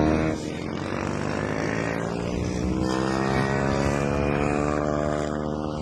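110cc mini GP racing motorcycles running at high revs during a race. The loudest bike fades just after the start as it passes, and the engine pitch wavers slightly as the riders work the throttle.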